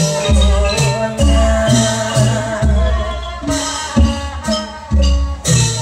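Live band music with a steady bass-drum beat, shaker percussion and a held melody line.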